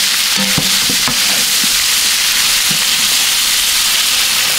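Meat and diced onions sizzling steadily in hot oil in a cooking pot, with a few light knocks of the stirring spoon against the pot.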